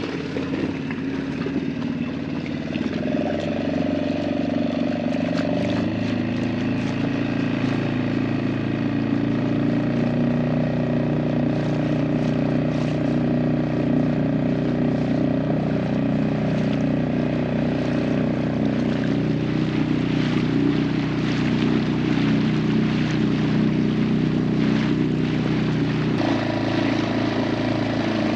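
Small outboard motor on an inflatable dinghy running steadily under way. Its pitch steps up about six seconds in as the throttle opens, and shifts again near the end.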